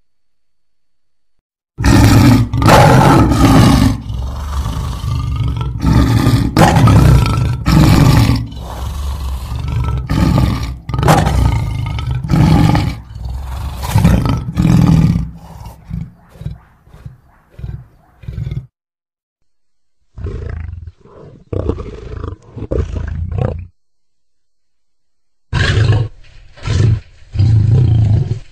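Lion roaring: a long, loud bout of roars that tails off into shorter grunts. After two silent gaps come two shorter bouts of roaring.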